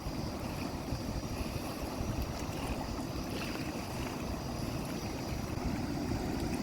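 Steady low rumbling noise of flowing water, with wind buffeting the microphone.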